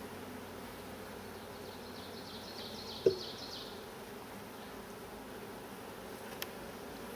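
Honeybees buzzing steadily around an open hive during an inspection, with a sharp knock about three seconds in and a small click near the end.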